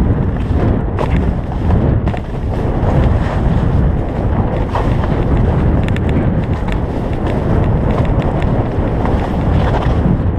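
Wind rushing over the microphone of a skier's camera during a fast downhill run, with the skis hissing and scraping over the snow and scattered short knocks.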